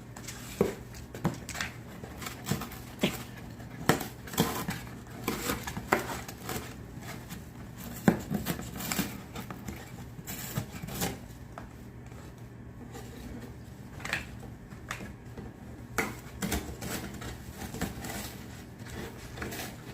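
Blue-and-gold macaw chewing and tearing at a cardboard box: irregular sharp snaps, crunches and scraping, a few every second.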